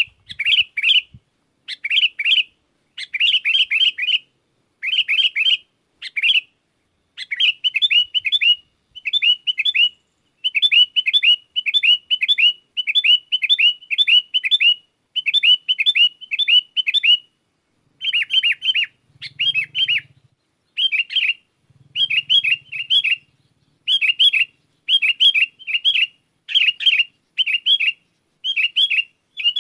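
Sooty-headed bulbul (kutilang) singing vigorously: short bright phrases of quick chirpy notes repeated about once or twice a second, coming in a denser run of back-to-back phrases around the middle.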